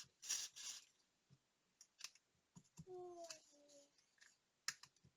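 Faint clicks and short scraping or snipping noises of small hand tools working on a watch, with a brief hummed tone about three seconds in.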